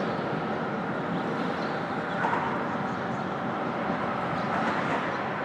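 Steady rumble of interstate traffic on the highway bridge overhead, mixed with many nesting birds calling.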